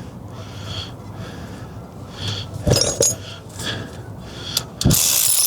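Light metallic clinks and handling noises from tools and steering-column parts being fitted, with two sharp clicks about three seconds in and a louder rustling burst near the end.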